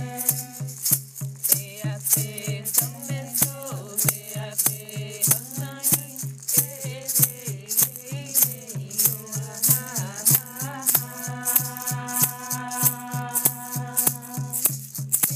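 Yawanawá chant sung by a voice over a steadily shaken rattle, with a regular low beat about three to four times a second. The melody bends and winds, then settles into long held notes near the end.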